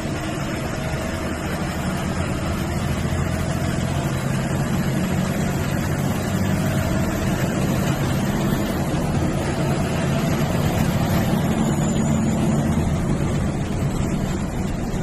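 Bus engine and road noise heard from inside the moving passenger cabin: a steady low hum with a broad rush of tyres and wind, slightly louder about ten seconds in.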